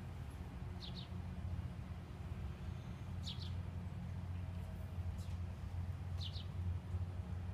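A songbird chirping three times, each a quick, high double chirp, over a steady low rumble.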